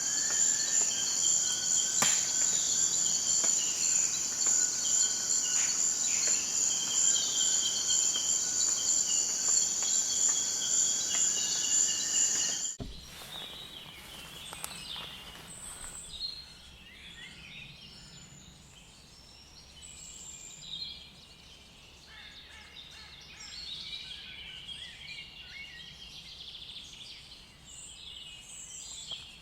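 A steady, high-pitched insect trill with bird calls over it, cutting off abruptly about halfway through. After the cut comes quieter birdsong, many short calls scattered over a soft background.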